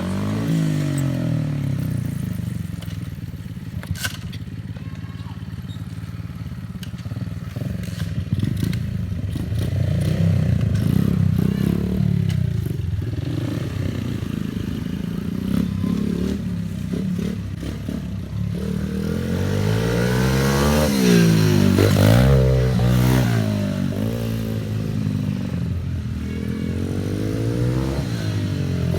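Pit bike engine running at varying revs as the bike rides the track, quieter at first, then revved hard several times, rising and falling, in the last third. A few brief clicks are heard in the first half.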